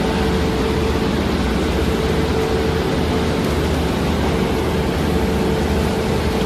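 Steady running noise of a moving train heard from inside an air-conditioned passenger car: an even rumble and hiss with a constant hum, unchanging throughout.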